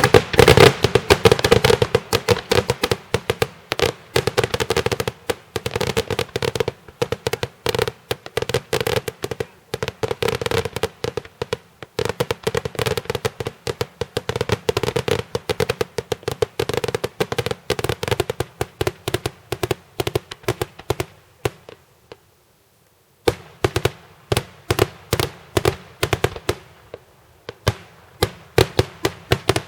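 Daytime fireworks display: a rapid, dense run of firecracker and aerial-shell bangs, several a second, with a brief break about twenty-two seconds in before the bangs start again.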